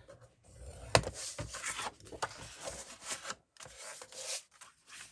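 Paper being scored and creased with a scoring tool: a sharp click about a second in, then several short scraping rubs across the paper.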